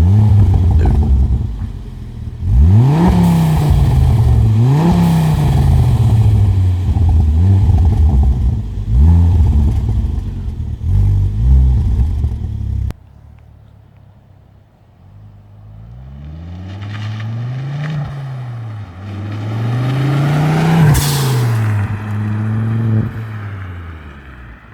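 Ford Focus XR5 Turbo's turbocharged 2.5-litre five-cylinder revved repeatedly through a new Cobra 3-inch resonated cat-back exhaust, climbing and dropping back several times. About halfway it cuts off abruptly, followed by a quieter second set of revs.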